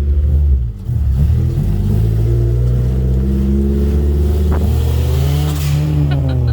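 Car engine revving under acceleration, its pitch climbing and falling. The sound breaks briefly about a second in, and near the end the pitch rises and falls again with a short hiss.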